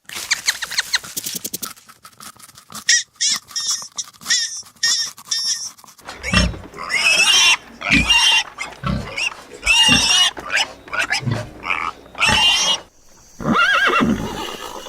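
Farm animals calling: a series of short, separate calls, louder and fuller from about six seconds in.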